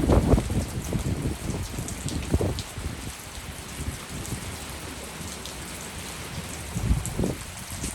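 Heavy rain pouring steadily, with louder low rumbling surges at the start and again about seven seconds in.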